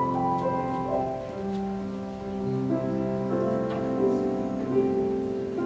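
Slow instrumental keyboard music: held chords that move to new notes every second or so.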